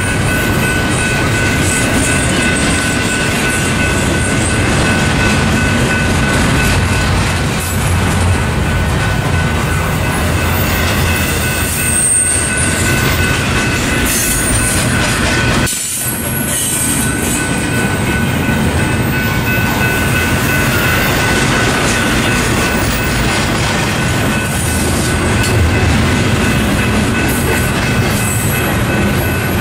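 Double-stack intermodal container cars rolling past close by: a continuous rumble and clatter of steel wheels on the rails, with steady high-pitched tones over it and a brief dip in level about halfway through.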